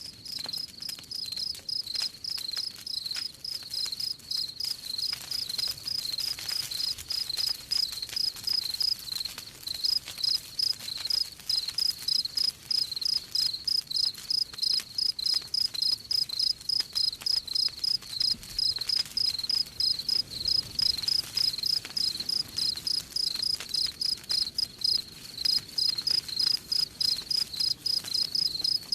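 Crickets chirping in a steady, even rhythm, several chirps a second, with faint crackles of a wood fire underneath.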